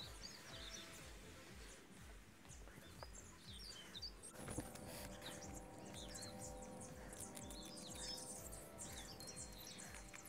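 Small birds chirping repeatedly, faint, over a low background rumble. About four seconds in, several faint steady held tones join in.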